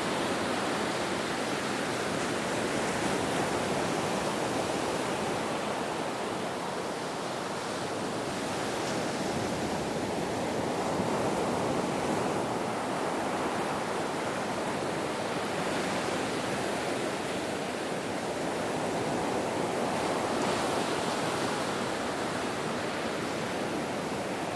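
Ocean waves washing in a steady wash of surf that swells and eases slowly every few seconds.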